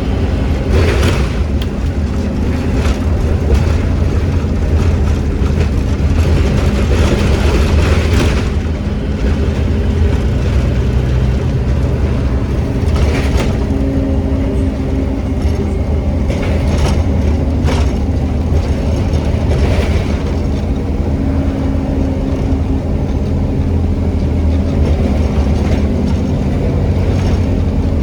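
Scania N270UD OmniCity double-decker bus under way, its five-cylinder diesel engine running with a steady low drone, heard from on board. A few short noisy bursts rise over it, near the start, about halfway through and again a little later.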